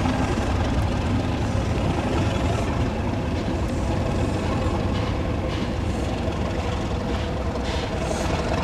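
A train's steady low rumble, with short hissing bursts in the second half.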